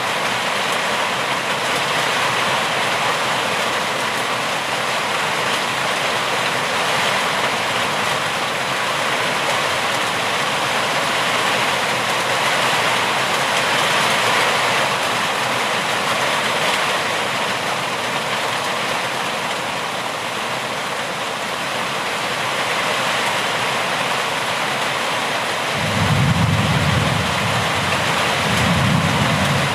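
Steady heavy rain hissing. Near the end, two low rumbles swell up one after the other.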